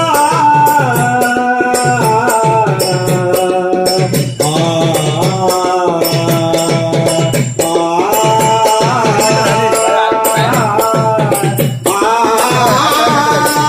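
Devotional bhajan music: voices sing long, wavering phrases over steadily jingling hand cymbals and a drum beat, with short breaks between phrases.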